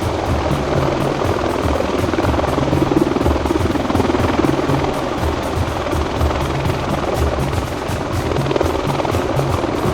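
Military rotorcraft in flight, a steady loud rotor and engine noise with a fast, even beat, under background music.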